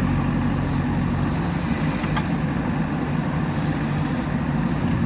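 Diesel engine of a JCB 3DX backhoe loader running at a steady speed, with an even low hum.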